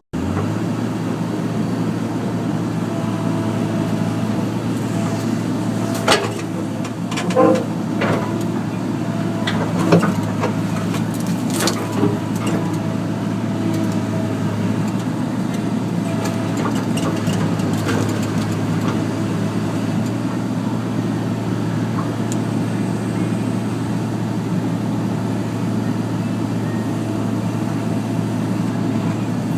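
Excavator's diesel engine running steadily, with a few sharp cracks and knocks between about six and twelve seconds in as it rips a branch off.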